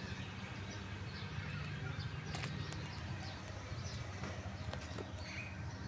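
Outdoor ambience: scattered short bird chirps and a few sharp clicks over a steady low hum.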